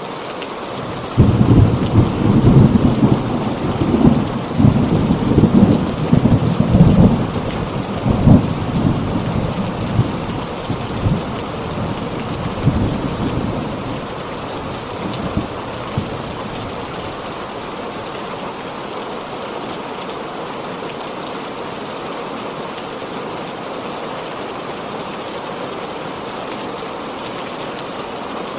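Heavy rain falling steadily, with a loud rolling peal of thunder that breaks about a second in and rumbles on in waves before dying away about halfway through, leaving only the rain.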